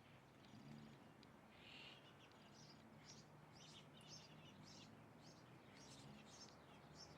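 Birds calling faintly, with a run of short high chirps repeating about two to three times a second from about two seconds in, over a faint low hum.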